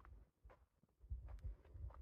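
Near silence: quiet outdoor ambience with a few soft low thumps and faint ticks.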